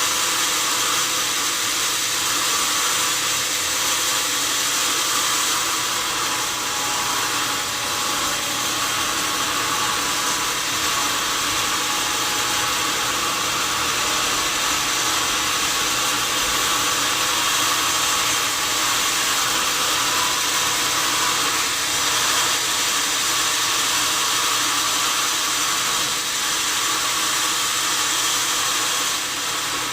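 Sawmill saw running steadily through a wadang log: a continuous hiss-like cutting noise over a steady motor hum, unbroken throughout.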